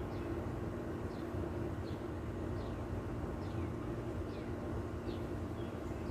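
A bird repeating a short, high, downward-sliding call about once every 0.7 seconds, over a steady low rumble.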